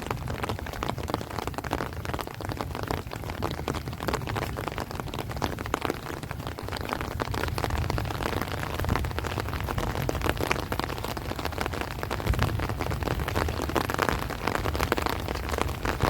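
Heavy rain falling steadily in dense, fine drops on rice plants and trees, over a constant low rumble from strong wind.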